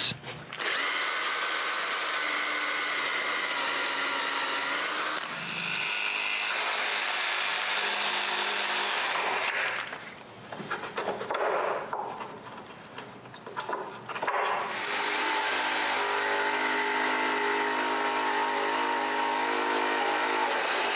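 Electric drill running and boring holes in plywood, in two long steady runs with a stretch of brief, uneven sounds between them.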